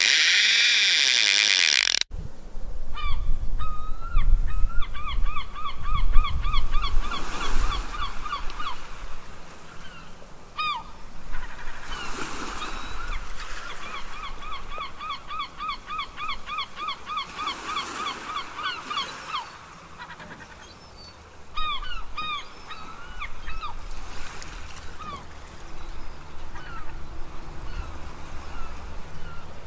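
A bird giving long runs of honking calls, about four a second, in several series broken by short pauses, over a low rumble. A loud hiss fills the first two seconds.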